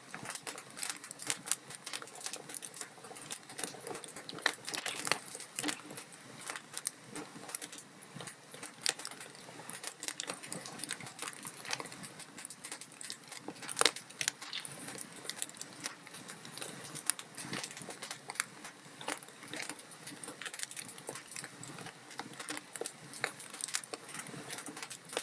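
Log fire crackling steadily, with dense irregular pops and snaps over a soft hiss; a sharper pop stands out about fourteen seconds in.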